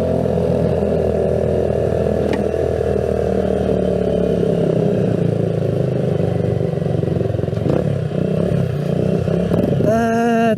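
Motorcycle exhausts running loud while riding, led by the Keeway CR152's single-cylinder engine; the engine note shifts lower-pitched about halfway through.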